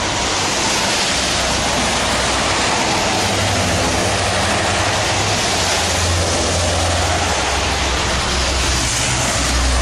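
Heavy rain pouring down steadily, with traffic on the wet highway adding tyre hiss and a low engine rumble that comes in about three seconds in and again near the end.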